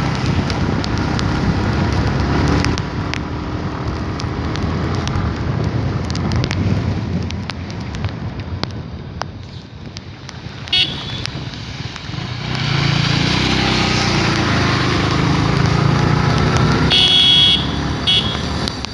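Motorcycle riding on rain-wet roads: the engine running under steady wind and road noise. A vehicle horn beeps briefly about eleven seconds in, and again in a few short toots near the end.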